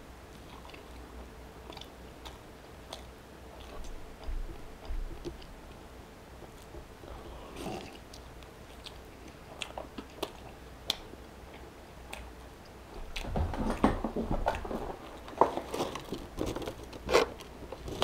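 A person chewing a mouthful of cheesy tuna melt sandwich: soft, wet mouth clicks and smacks. For the last four or five seconds louder crackling and knocks come in as a clear plastic clamshell box is handled and held up.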